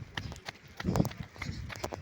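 Footsteps of a person running, a quick series of thuds and scuffs.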